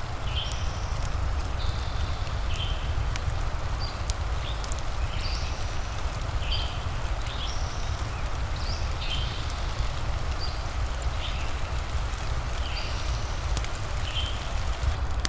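Rain-and-fireplace ambience: a steady wash of rain with a low rumble, scattered sharp crackles, and short high chirps repeating roughly once a second.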